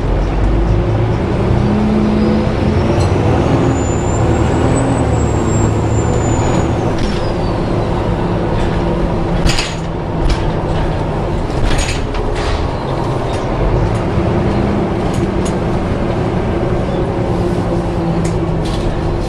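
Volvo B7TL double-decker bus running, heard from on board, with a steady low engine drone. Over it a thin, high-pitched squeal rises, holds, then falls away over several seconds. Later come a few short hisses.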